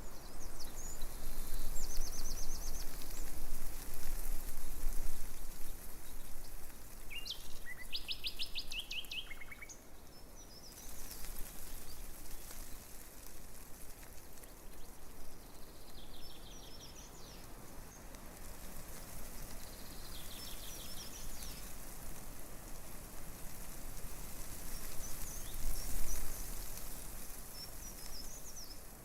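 Breeze rustling through tree leaves, swelling and easing in gusts, with songbirds calling several times in short, rapid trills and chirps.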